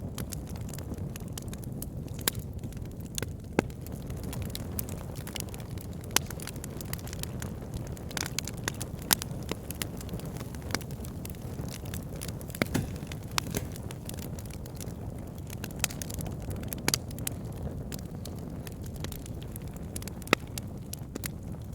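Wood fire burning in a fireplace: a steady low rumble of flame with frequent small crackles and sharp pops at irregular intervals.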